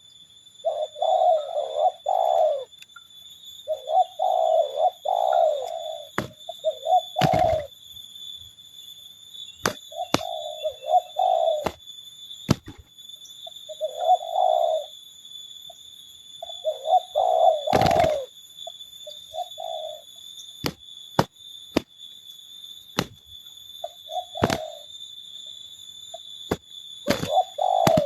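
Spotted doves cooing, repeated phrases of low coos with pauses between them. Several sharp knocks are heard, two of them loud, along with a steady high-pitched whine in the background.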